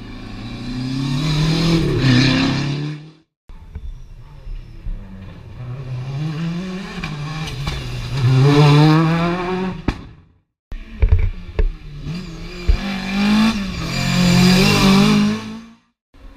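Historic rally cars accelerating hard along a special stage, engines revving high and climbing through the gears, in three separate passes that each cut off abruptly. A few sharp pops sound at the start of the third pass.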